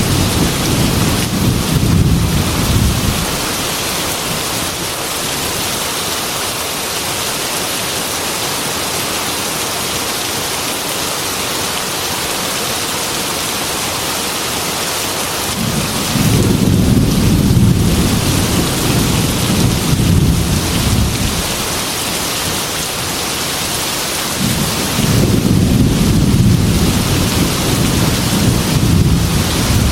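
Heavy rain falling steadily, with thunder rumbling three times: at the start, again for several seconds about halfway through, and near the end.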